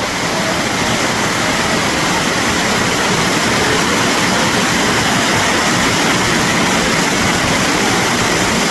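Waterfall rushing, a loud, steady, even roar of falling water.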